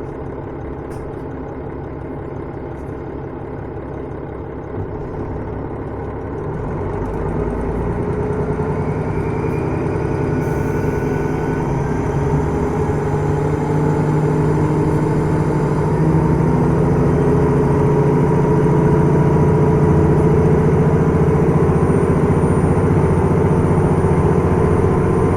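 Onboard running sound of a KiHa 110-series diesel railcar (KiHa 112-3): its DMF11HZ diesel engine runs steadily, then from about six seconds in grows steadily louder with stronger engine tones as it takes power. By about sixteen seconds it holds a loud, even note.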